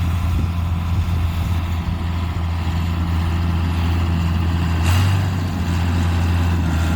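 Bulldozer's diesel engine running steadily, its note briefly rising about five seconds in.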